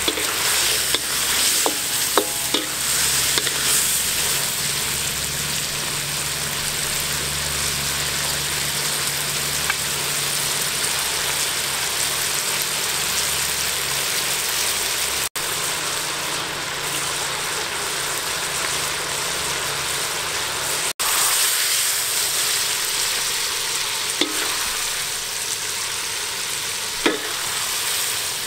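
Squid and fresh green peppercorns sizzling steadily in a hot wok as they are stir-fried, with a few short knocks of a wooden spatula against the pan near the end.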